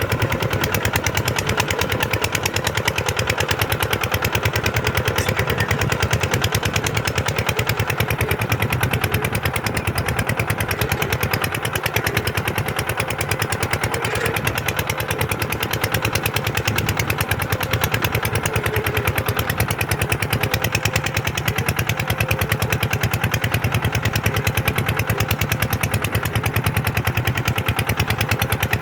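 Kubota tractor's diesel engine running steadily with a rapid, even beat.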